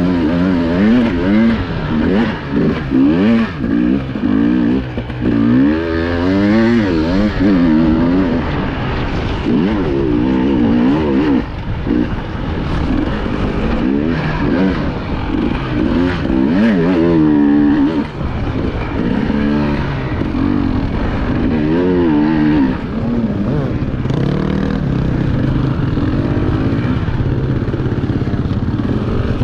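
Enduro motorcycle engine heard up close from the bike, revving up and down in quick rises and falls as the throttle is worked over rough terrain, settling to a steadier pull near the end.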